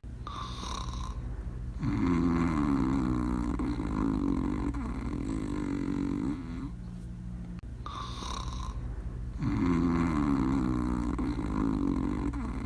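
Cartoon dog snoring in a repeating cycle, twice over: a short whistling breath, then a long, low snore that sinks in pitch.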